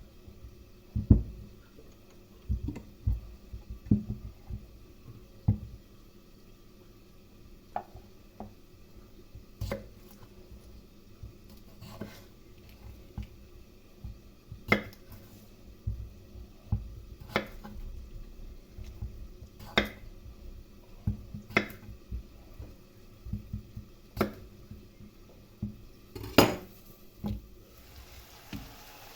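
Kitchen handling sounds: dishes and utensils knocking and clinking. There are soft thumps in the first few seconds, then sharper clinks every couple of seconds, the loudest one near the end.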